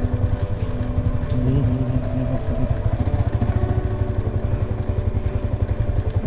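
Motorcycle engine running steadily while riding, a low, rapidly pulsing sound.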